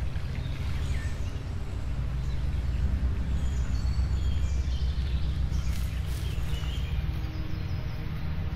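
Small birds chirping now and then over a loud, steady low drone.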